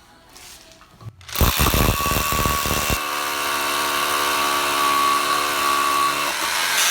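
SDS hammer drill starting about a second in and drilling a hole with a Thürmer Pro bit: heavy low pounding at first, then a steady whine.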